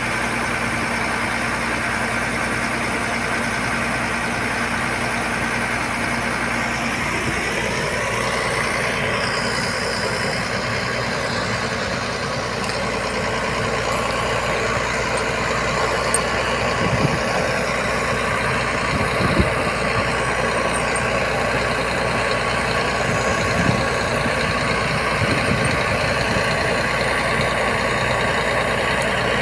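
Heavy truck's diesel engine running steadily, its note shifting about a third of the way in, with a few short knocks about halfway through.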